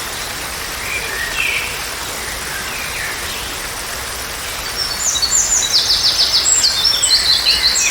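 Songbirds over a steady rush of water, such as a waterfall or stream. A few scattered chirps come first, then from about five seconds in a bird sings a fast run of short, high, falling notes.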